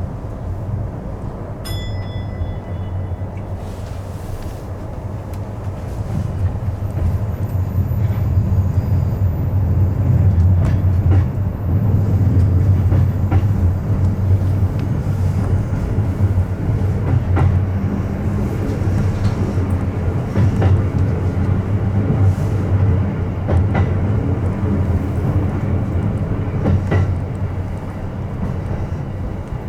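Electric commuter train running, heard from inside the car: a steady low rumble that grows louder about six seconds in, with wheels clicking now and then over rail joints.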